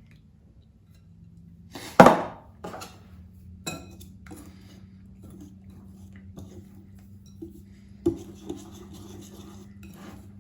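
Kitchen utensils clinking and knocking against a mixing bowl as pancake batter is combined, with one loud clatter about two seconds in and a few lighter knocks after, over a steady low hum.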